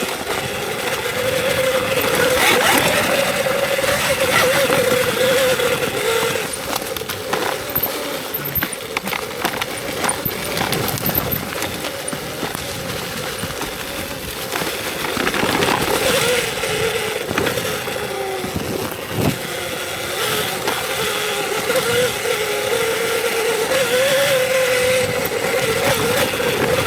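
Electric dirt bike's motor whining on a trail ride, its pitch rising and falling with the throttle, over wind and tyre noise with scattered knocks from the rough ground.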